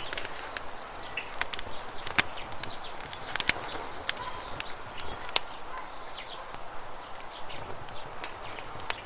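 Wood campfire crackling with sharp, irregular pops over the steady rush of flowing river water, with small birds chirping now and then.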